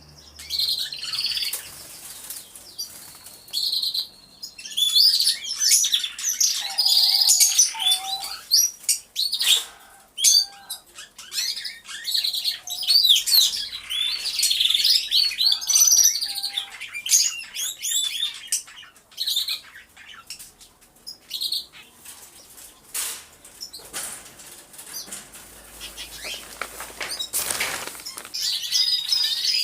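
Many domestic canaries singing at once in an aviary: a dense, overlapping stream of fast trills, warbles and chirps, with a few lower notes in places.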